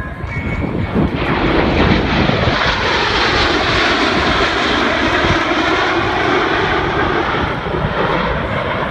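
F-16 fighter jets passing close overhead, their engine noise building about a second in and staying loud, with a slowly shifting, phasing whoosh as they go by.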